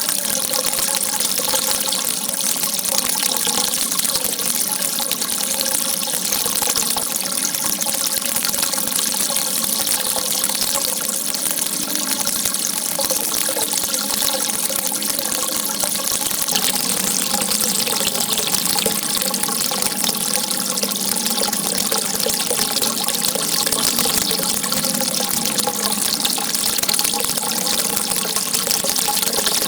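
Water running and splashing in a steady, unbroken stream.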